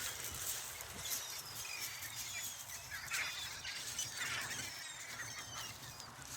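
A large flock of seagulls calling, many short overlapping cries at once.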